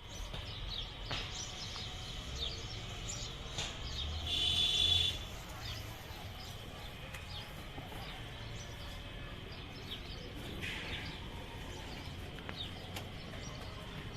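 Birds chirping, short high calls repeating every second or so over a low steady rumble, with one louder, longer call about four seconds in.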